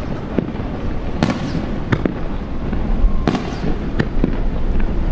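Aerial fireworks bursting overhead: about six sharp bangs at uneven intervals, roughly one a second, over a steady low rumble.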